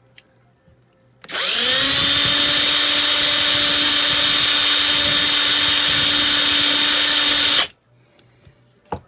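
Electric drill spinning up with a rising whine, running at a steady pitch for about six seconds, then stopping abruptly. It is drilling out the rivets of a Hot Wheels die-cast car to take it apart.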